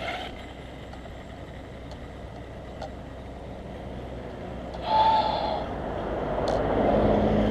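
A vehicle running outdoors: a short louder burst about five seconds in, then a sound that grows steadily louder toward the end, with a low hum underneath.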